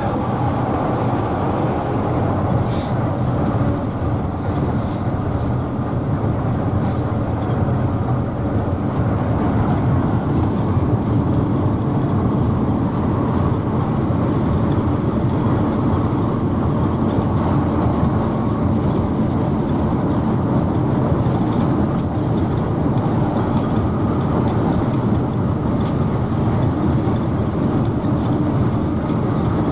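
Mercedes-Benz OH1113 bus under way: steady diesel engine and road noise with no change in pace, and a few faint clicks in the first few seconds.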